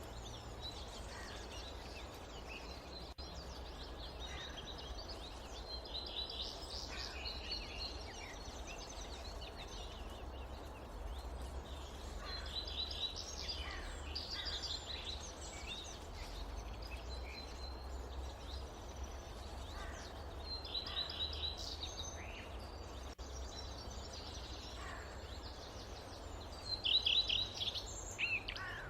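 Forest ambience: a steady low rumble of wind under an even hiss, with several short bursts of bird chirping, the loudest near the end.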